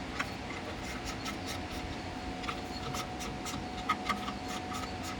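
Hand ratchet clicking in short runs as the clutch pressure plate bolts are snugged down a little at a time, over a steady faint hum. Two louder metal knocks come about four seconds in.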